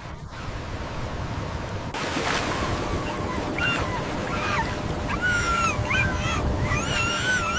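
Rushing floodwater, growing louder about two seconds in. From about three seconds in, a dog gives repeated short, high whimpering whines that bend up and down and come closer together near the end.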